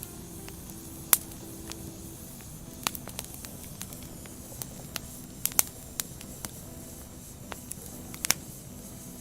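Burning firewood crackling: a steady low hiss broken by about a dozen sharp pops at irregular intervals, the loudest about a second in, around the middle, and near the end.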